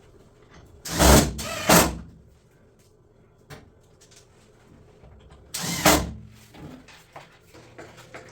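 Work noises from dismantling a drum washing machine: two loud bursts of mechanical noise about a second in, another near six seconds, and small clicks and knocks between.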